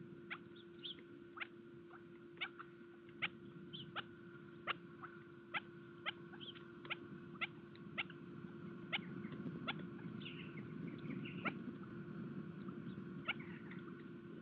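Birds pecking at seed on a bird feeder: sharp taps about one or two a second that thin out in the last few seconds, with a few short, high chirps between them.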